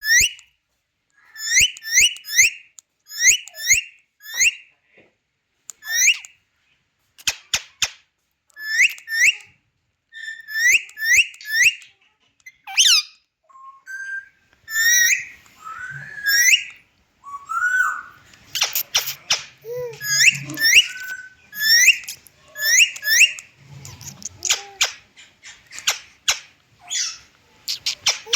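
Indian ringneck parakeet giving short, rising whistled calls, often in quick runs of two or three, mixed with sharp clicks. The second half also holds scratchier noises.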